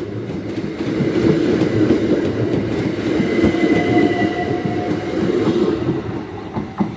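Two coupled Class 375 electric multiple units running past, a steady rumble with wheels clattering on the rails. A faint whine comes through in the middle, and the sound eases off slightly near the end.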